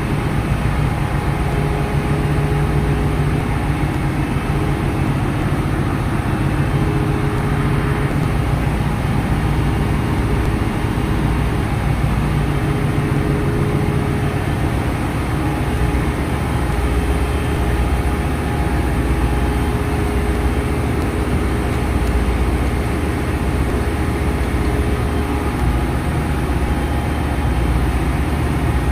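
Ship's engine room machinery running: a loud, steady, deep drone with a faint whine that comes and goes.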